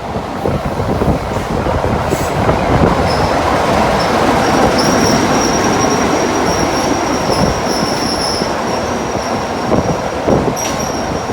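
Heritage railway train running along the track: a loud, steady rumble with a thin, high wheel squeal that sets in about three seconds in and holds.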